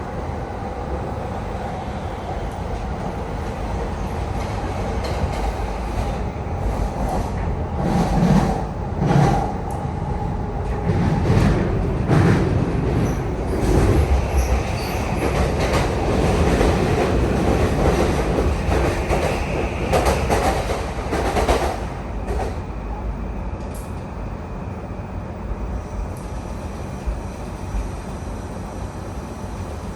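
E235 series electric train heard from inside the car: wheels running on the rails with a burst of clatter and rattle in the middle, under the steady electric tones of its SiC VVVF inverter. The tones shift in pitch partway through.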